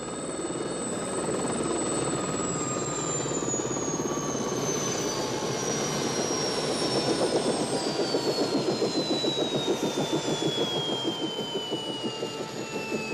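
Turbine helicopter running, a high whine sliding steadily down in pitch over a fast, even beat of the rotor that grows stronger about halfway through.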